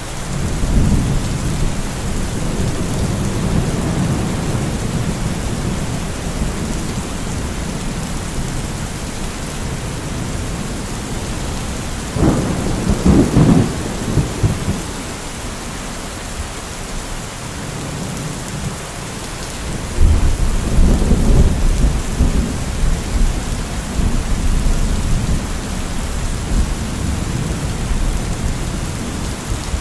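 Steady rain with rolling thunder. Low rumbles swell near the start, a sharper peal comes about twelve seconds in, and a long, deep rumble follows about twenty seconds in.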